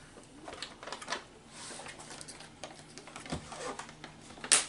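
Plastic pudding cups and their packaging being handled: scattered light clicks and crinkles, with one sharp snap near the end.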